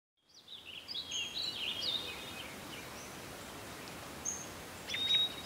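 Birds chirping: a quick run of short, swooping calls in the first couple of seconds, then a few more calls near the end, over a faint steady outdoor background hiss.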